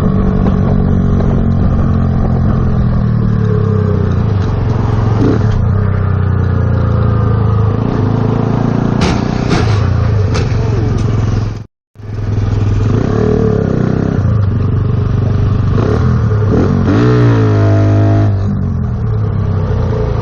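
Motor vehicle engine and road noise running steadily, cutting out for a moment about twelve seconds in, with a rising rev near the end.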